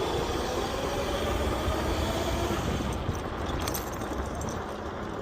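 Dirt bike running as it is ridden, a steady low rumble with a faint rising whine from the motor near the start.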